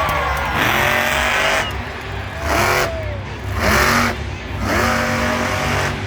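Monster truck engine revving in four hard bursts about a second apart, the pitch climbing and dropping with each, over a steady low rumble.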